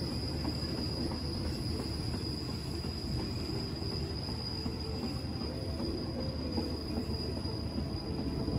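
Diesel-hauled passenger train rolling slowly on the rails with a steady low rumble, braking as it draws to a stop.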